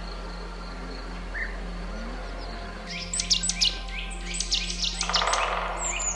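Steady low background ambience, then from about three seconds in a busy flurry of bird chirps: many short, sharp high notes sweeping downward in quick succession.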